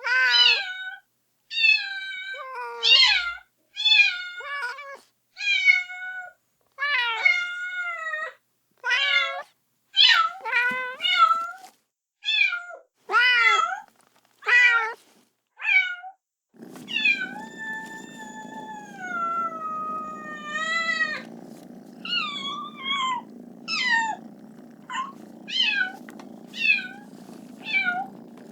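Kitten meowing over and over, calling for its mother, with short high-pitched cries about one a second. About halfway through, one longer drawn-out meow lasts several seconds, and a steady low rumble starts underneath and carries on to the end.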